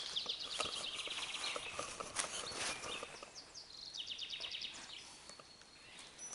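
Small songbird singing a fast trill of rapidly repeated high notes, twice: once at the start and again about four seconds in. Scattered faint clicks and rustles run underneath.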